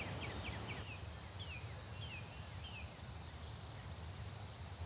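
Outdoor nature ambience: a steady high insect drone with quick, falling bird chirps, several in quick succession in the first second and a few more spread out after, over a low rumble.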